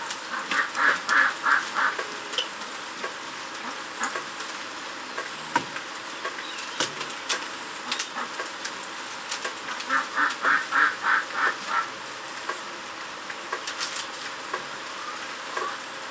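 Farmyard poultry calling: two runs of rapid, evenly paced calls, about six a second, one near the start and one about ten seconds in, over a steady hiss with scattered faint ticks.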